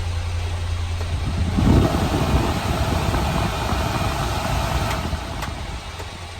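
Small three-cylinder engine of a 1996 Honda Acty kei truck running. It gets louder and rougher about two seconds in, then settles back toward a steady run near the end.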